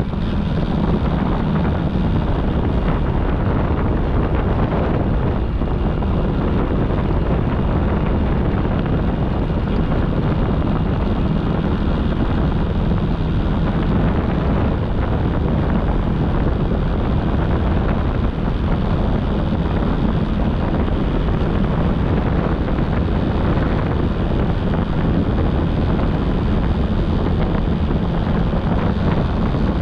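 Wind rushing over the microphone on a moving motorcycle, over the steady low hum of its engine.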